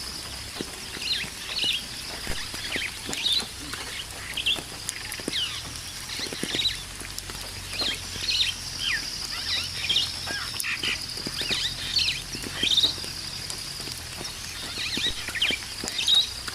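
Rainforest birds calling in many short, quick chirps and sweeping notes, several overlapping, with a steady high buzz that comes and goes behind them.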